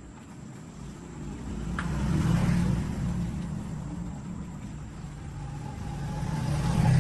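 An engine running with a low rumble that swells twice, about two seconds in and again near the end.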